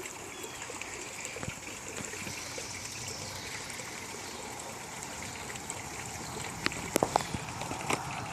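Steady rushing background noise, like running water or a fan, with a few light taps and clicks in the last couple of seconds.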